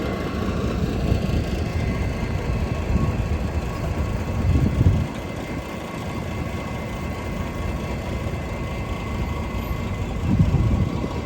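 Outdoor city street ambience dominated by a low rumble, which swells louder twice, about four and a half and ten and a half seconds in, over a faint steady whine.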